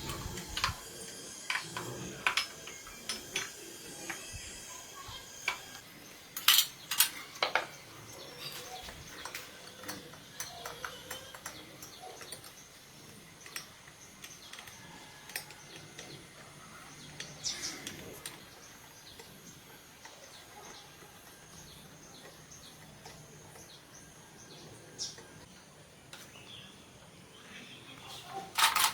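Light metallic clicks and clinks of small metal parts and hand tools being handled, scattered with quiet gaps between them, with a quick run of clinks at the very end.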